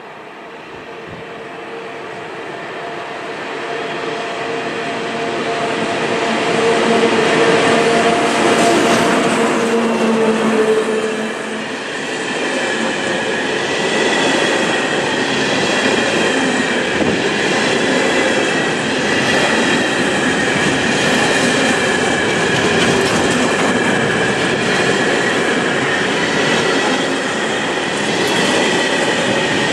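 Freight train of covered hopper wagons approaching and running past close by, growing louder for the first several seconds with a steady hum as the front of the train arrives. It then settles into a steady rolling rumble of wagons, with regular clicks over the rail joints and a thin high squeal from the wheels.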